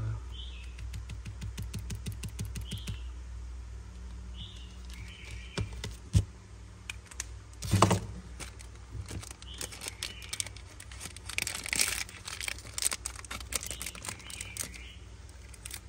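Zippo lighters being handled: scattered small metallic clicks and clinks, two louder knocks about six and eight seconds in, and a rustling stretch around eleven to twelve seconds.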